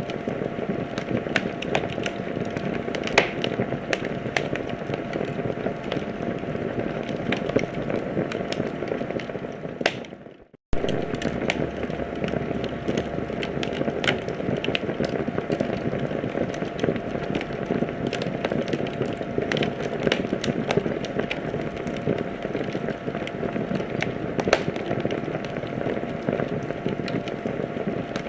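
Wood fire crackling and popping: irregular sharp snaps over a steady hiss. The sound fades out briefly about ten seconds in, then starts again.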